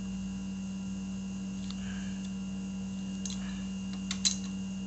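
Steady electrical hum, with a few light metallic clicks late on, the sharpest near the end: a hex key snugging the small hex bolts on a motorcycle front brake caliper.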